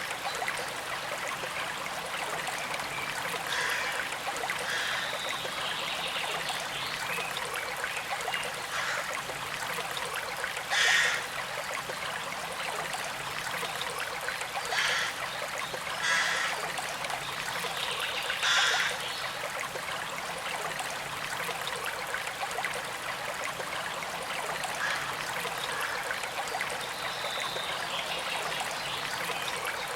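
Small creek flowing and trickling steadily, with a few brief louder gurgles or splashes about halfway through.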